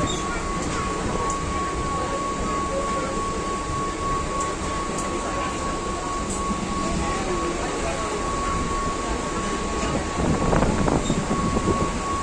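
Mumbai suburban local train running at speed, heard from inside the carriage: a steady rumble and rattle with a constant high whine, growing louder for a moment about ten seconds in.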